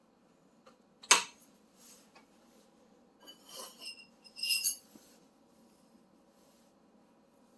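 A sharp click about a second in, then two short spells of light metallic clinking and rattling from small hardware being handled during appliance repair work.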